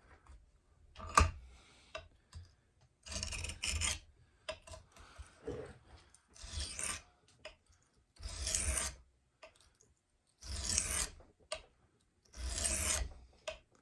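Knife blade drawn across a coarse, water-soaked Japanese whetstone: about six gritty rasping strokes, each under a second long and roughly two seconds apart, grinding the edge bevel. A sharp knock about a second in.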